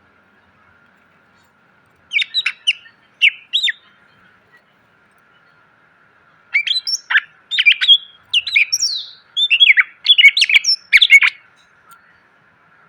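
Cucak ijo (green leafbird) singing: two short bursts of quick, sharp notes about two and three seconds in, then a longer run of varied, fast-changing phrases from about six and a half to eleven seconds in.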